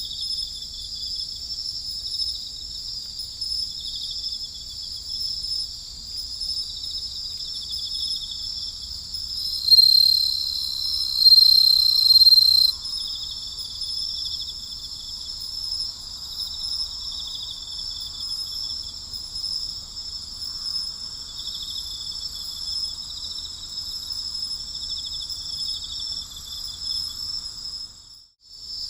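Night chorus of crickets: a dense, steady high trilling with pulsed chirps under it. A louder, single-pitched trill stands out for about three seconds from around ten seconds in, and the whole chorus cuts out for a moment near the end.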